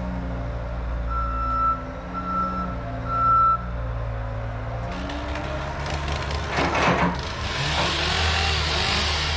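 Heavy vehicle's engine running with its reversing alarm beeping three times. From about halfway through, a louder rushing hiss with some clatter takes over.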